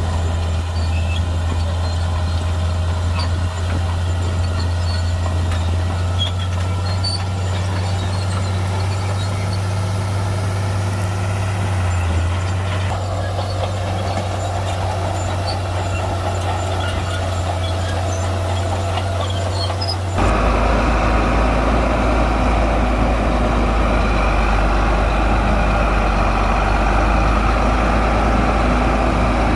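Heavy Shantui bulldozer's diesel engine running steadily at work. About two-thirds of the way through, the sound switches abruptly to a deeper, louder rumble.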